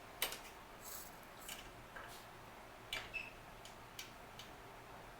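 Faint, irregular light clicks and metallic taps of hand tools being picked up and handled on a bike, the sharpest about a quarter-second in and again near three seconds.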